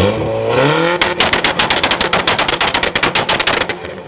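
A car engine revs up with rising pitch, then for almost three seconds gives a rapid, machine-gun-like string of exhaust bangs, about eleven a second, that stops abruptly near the end. This is the sound of the engine held on a rev limiter, the kind of popping a two-step launch limiter makes. It is very loud: the loudest car heard so far at the meet.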